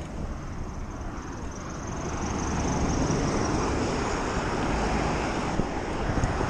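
Wind rushing over a chest-mounted GoPro's microphone while riding a BMX bike. It is a steady rush that grows a little louder about two seconds in.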